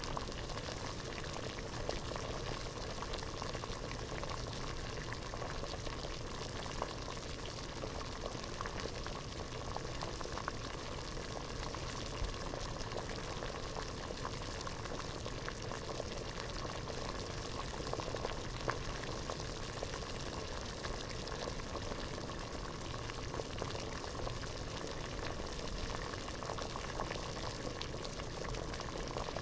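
Water boiling hard in a pot, bubbling steadily with many small pops and crackles.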